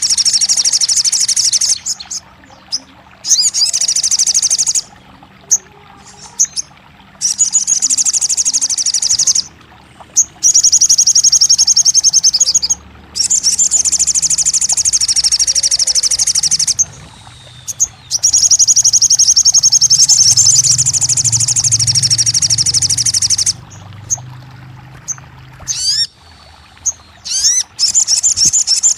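Sogon (crimson sunbird) song: long, high, rapid trills of two to five seconds each, repeated with short breaks. Shorter chirps come near the end.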